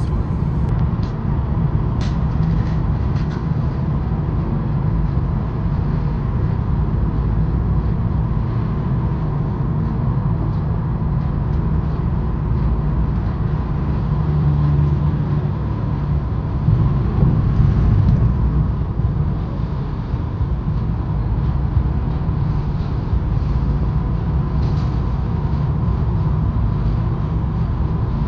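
Mercedes-AMG car driving at a steady pace on a wet road: a steady low rumble of engine and tyre noise with a faint steady hum over it.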